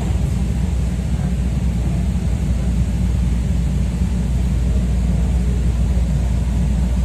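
Steady low rumble inside a Chicago 'L' rapid-transit train car moving along elevated track: wheels on rails and running gear, with no distinct clicks or changes.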